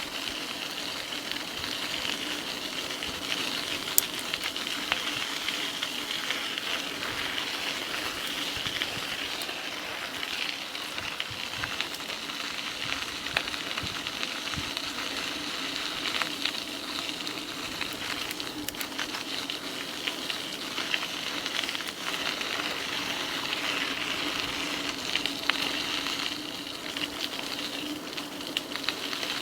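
Steady hissing ride noise of an e-bike rolling along a trail, with frequent small ticks and clicks from the tyres and bike.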